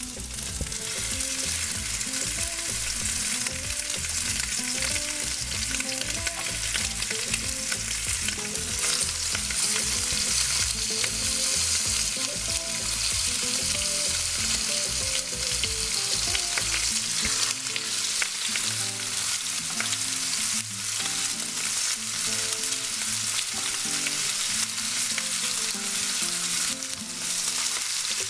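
Flour-dredged chicken breasts sizzling steadily as they fry and brown in hot oil in a pan.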